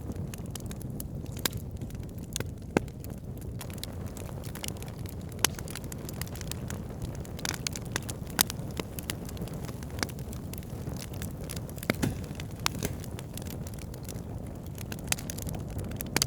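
Wood campfire burning, crackling and popping irregularly over a steady low rumble, with a few louder pops standing out.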